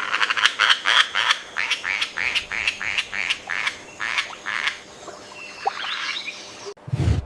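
A frog calling in a rapid train of short croaks, about five a second, that trails off after about five seconds. A brief low thump comes near the end.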